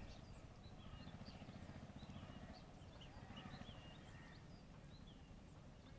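Near silence: faint birds chirping now and then over a low wind rumble.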